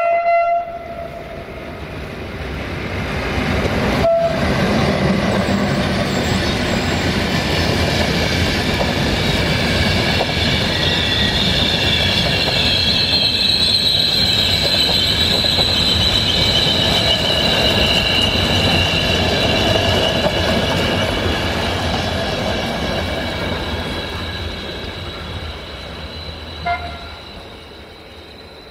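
A 060-EA (LE5100) electric locomotive hauling a passenger train goes by: a short horn blast as it opens, then the rumble of the locomotive and coaches swells, holds and fades away. A high-pitched wheel squeal rides over the middle of the pass, and brief horn toots come about four seconds in and near the end.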